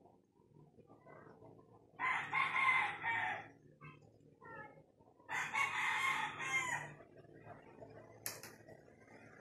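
A bird calling twice, each call about a second and a half long and about three seconds apart, then a sharp click near the end.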